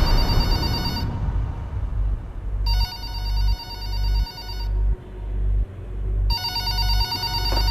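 Mobile phone ringtone for an incoming call, sounding in bursts about two seconds long with short pauses between them, over a low hum that swells and cuts off a little faster than once a second.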